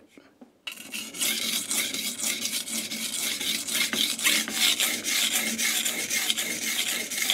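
Steel kitchen knife blade scraping back and forth on a wet, coarse King G-45 220-grit whetstone during sharpening, a continuous gritty rasp of quick repeated strokes that begins just under a second in.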